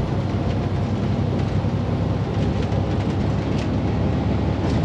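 Semi truck's diesel engine running steadily under load, heard from inside the cab as the truck pulls away.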